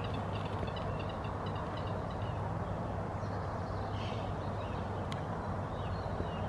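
Small birds chirping at intervals over a steady low outdoor rumble.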